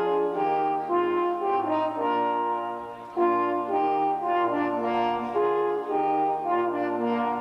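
Brass music: several horns play held notes together in harmony, moving from chord to chord.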